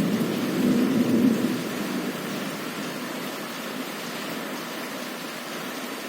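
Heavy rain falling with a steady hiss, with a low rumble of thunder in the first couple of seconds that fades out.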